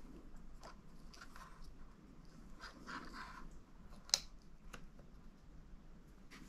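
Faint handling noises with small scattered clicks, and one sharper click about four seconds in.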